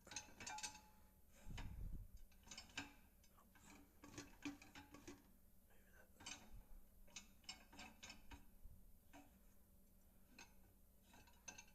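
Faint, scattered clicks and light knocks from a dishwasher being handled, with a dull thump just under two seconds in.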